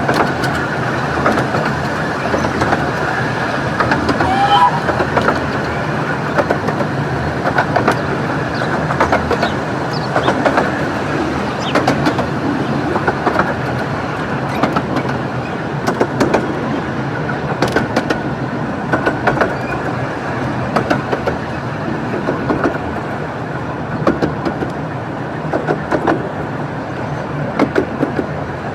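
Romney, Hythe and Dymchurch Railway miniature 15-inch-gauge train running along the line: a steady rumble with sharp clicks of the wheels over rail joints every second or two.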